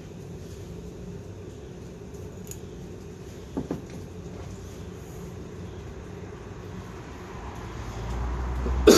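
Steady low background hum. A light tap comes about three and a half seconds in, a low rumble builds near the end, and a sharp knock comes at the very end.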